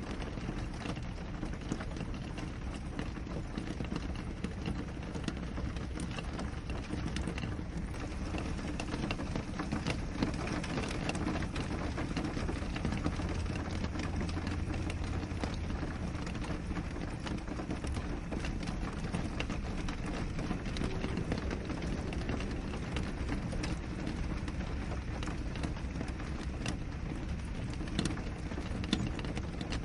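Steady rain falling on a window pane: an even hiss and low rumble, dotted with the ticks of many individual drops striking the glass.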